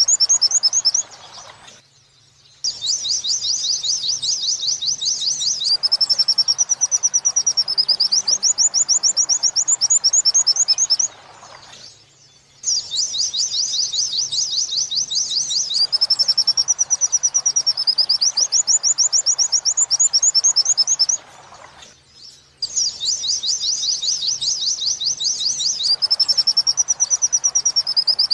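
Pleci (white-eye) song of the 'wit-wit sambung kuntilanak' type, played as a looped training recording: a fast run of high repeated notes, then a slower wavering whistle, then the fast run again. Each song runs about ten seconds, with brief pauses about a second in, near the middle and near the end.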